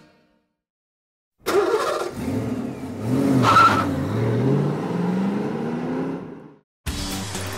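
Cartoon sports car engine sound effect, starting about a second and a half in, revving and accelerating as the car pulls away. Its pitch dips and then climbs steadily before fading out.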